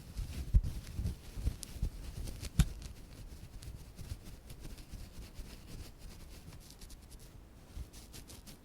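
Close-miked ear pick scraping and tapping in an ear, a run of irregular scratches and clicks. Louder in the first few seconds with one sharp click about two and a half seconds in, then fainter, quicker scratching.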